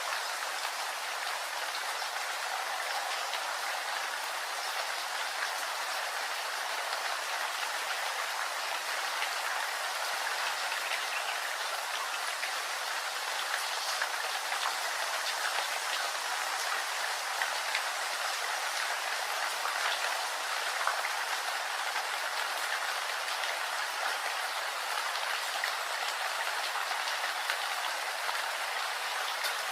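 Steady rain falling: a dense, even hiss of water with many small drop ticks scattered through it.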